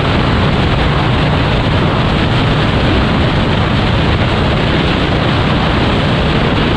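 Loud, steady wind rush on the microphone of a motorcycle riding at road speed, with the engine running underneath.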